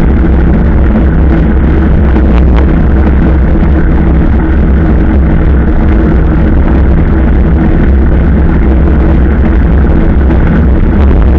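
Motorcycle engine running at a steady cruise, a constant low hum, with heavy wind rush over the microphone.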